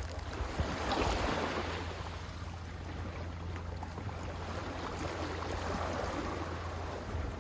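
Sea waves washing, a swell of surf about a second in easing into a softer wash, over a steady low rumble.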